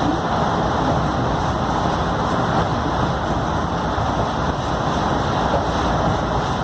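Scania K310UD double-decker bus on the move: a steady mix of engine, tyre and wind noise with no distinct events.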